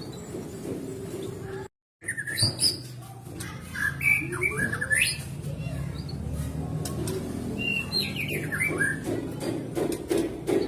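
White-rumped shama singing: quick runs of whistled, sliding notes mixed with sharp clicks, over a low background murmur, cut by a moment of total silence about two seconds in.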